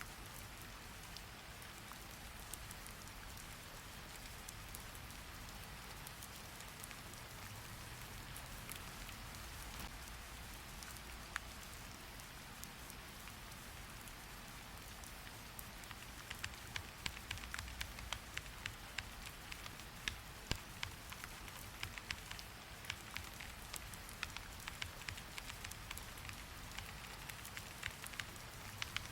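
Steady rain, with computer keyboard typing, quick irregular key clicks, starting a little past halfway.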